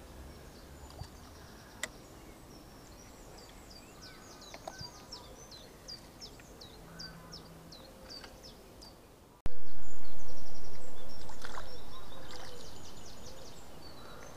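Songbirds singing in quick runs of high, falling chirps. About nine and a half seconds in, a sharp knock sets off a deep boom that fades slowly over several seconds and is the loudest sound.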